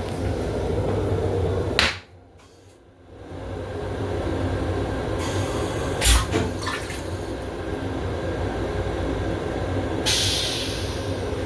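Toilet flushing in an M7 railcar restroom over the train's low running rumble. The sound cuts off abruptly about two seconds in, then the noise fades back up, with a sharp click about six seconds in.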